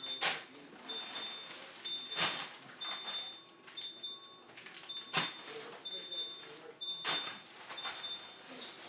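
A refrigerator's door-open alarm beeping, one short high beep about once a second, over knocks and clatter of items being handled in and around the open fridge, the sharpest knocks about two, five and seven seconds in.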